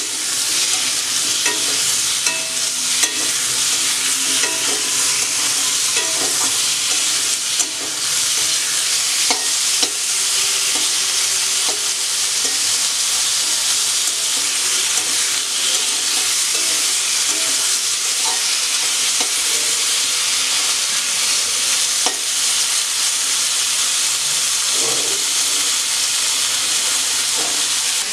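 Potato wedges sizzling steadily in hot oil in a metal wok, with a spatula scraping and clinking against the pan now and then as they are stirred.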